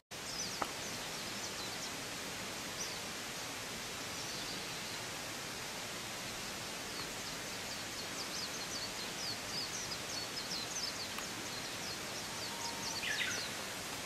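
Small birds chirping in quick runs of short, high calls over a steady, even outdoor hiss; near the end one call slides downward.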